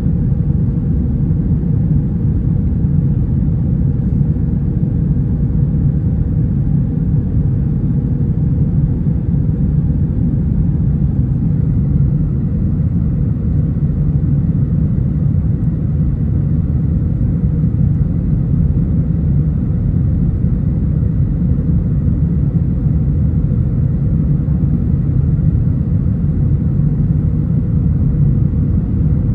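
Steady cabin rumble inside an Airbus A320: a deep, even roar of engines and airflow with a faint steady hum above it, unchanging throughout.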